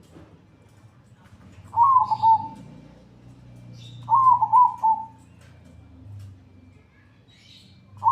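Zebra dove (perkutut) cooing: two phrases of several quick notes each, about two seconds in and about four seconds in, with a third starting at the very end.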